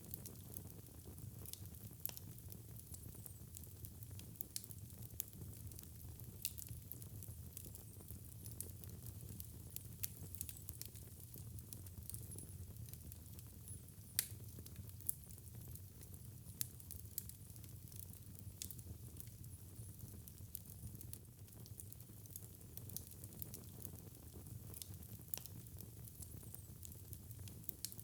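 Wood fire burning in a fireplace: a steady low rumble of flames with frequent sharp, irregular crackles and pops, one louder pop about 14 seconds in.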